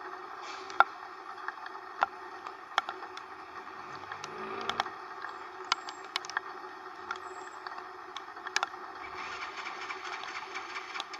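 Yamaha YTX125 tricycle on the move in the rain: a steady engine and road noise with irregular sharp ticks and taps throughout. About four seconds in a low engine note rises briefly, and about nine seconds in a broader hiss joins.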